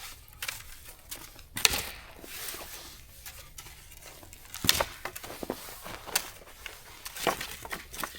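Irregular crunching footsteps on snow and ice, with a few sharper crunches among quieter ones.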